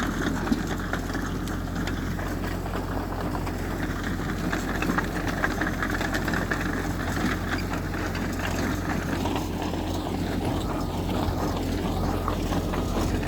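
Diesel engine of heavy earthmoving machinery running steadily, with scattered light clanks over the low engine hum.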